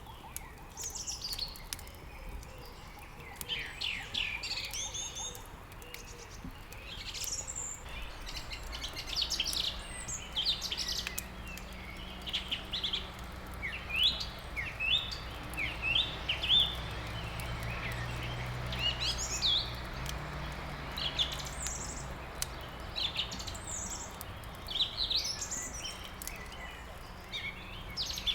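A chorus of small songbirds chirping and trilling in quick, overlapping short calls, with faint crackling clicks of a wood fire underneath.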